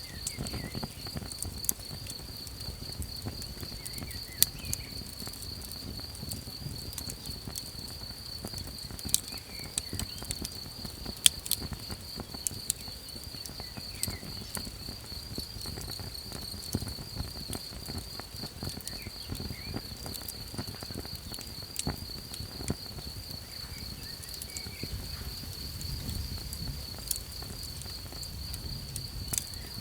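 Campfire crackling with scattered sharp pops, the loudest few around the middle, over a low rumble and a steady, fast-pulsing high trill of chirping insects.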